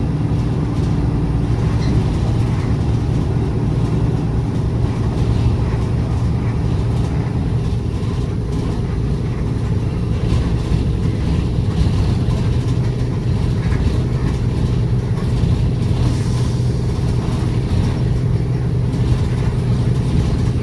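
Inside a route bus under way: the engine's steady low drone mixed with tyre and road noise.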